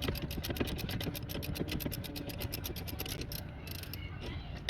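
Hand ratchet wrench clicking rapidly and evenly as it is worked back and forth on a bolt, stopping about three seconds in, followed by a few loose clicks.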